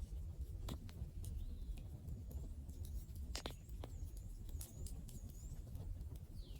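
Wood campfire crackling: scattered sharp pops and snaps at irregular intervals, one louder snap about halfway through, over a low steady rumble.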